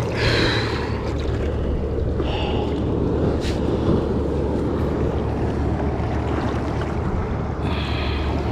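Boat engine idling in a steady low hum, with wind and water noise over it.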